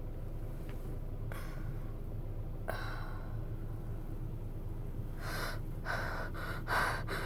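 A person breathing hard with gasps, a few separate breaths and then quicker ones near the end, over a steady low hum.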